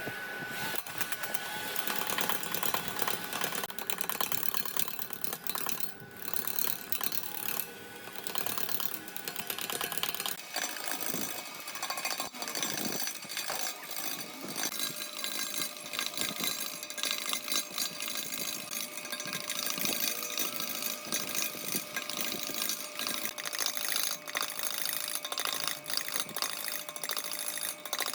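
A woodworking power tool working wood, with a dense run of rapid clicks and a faint steady whine underneath.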